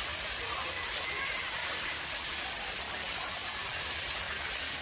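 Water running steadily into a man-made pond, a continuous even splashing hiss.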